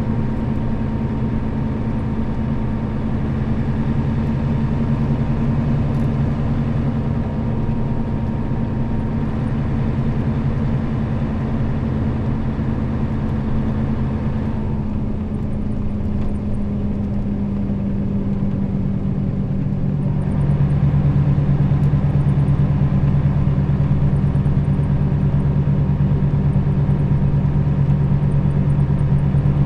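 Nissan Diesel KL-RA552RBN bus's diesel engine running under way, with a faint steady whine over it. About fifteen seconds in the engine eases off for a few seconds, then at about twenty seconds it comes back louder and stays up as the bus pulls again.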